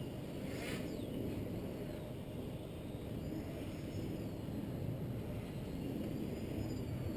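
Wind buffeting the microphone, with the faint whine of a model plane's electric motor rising and falling in pitch overhead.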